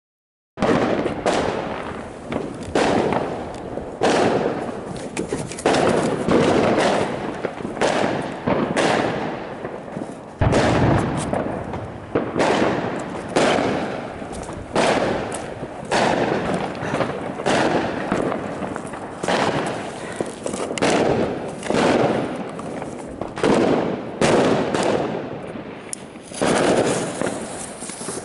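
Funke Tornado Wirbel spinning ground fireworks (spinning suns with a whistle) going off. The sound starts abruptly and comes in a long series of sharp surges, each fading again, about one every second and a half.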